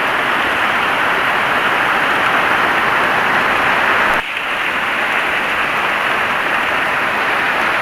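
Heavy rain falling steadily, an even hiss, with a brief sudden dip in level about four seconds in.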